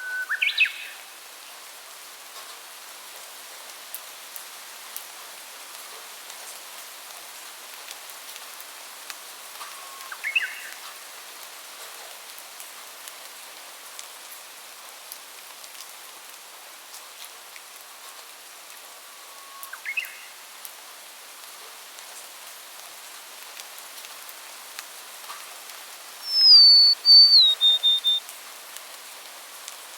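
Steady rain hiss with a bird giving a short rising call three times, about ten seconds apart. Near the end comes the loudest sound, a clear whistled phrase that steps down in pitch over about two seconds.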